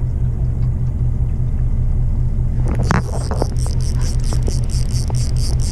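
Fishing boat's engine running with a steady low rumble. About halfway in, a few knocks, then a fast, even ticking starts, around six ticks a second.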